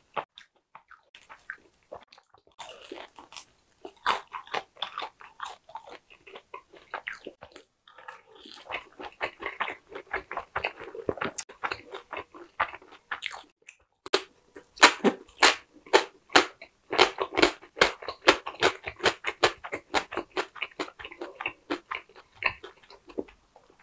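Close-miked crunchy biting and chewing of crisp food, a dense run of sharp crackling bites with a couple of short pauses, loudest in the second half.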